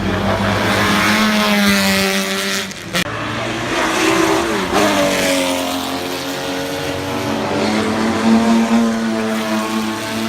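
Classic racing cars' engines running hard on a circuit, with the pitch rising and falling as they change gear and go past. One drops sharply in pitch as it passes about four and a half seconds in.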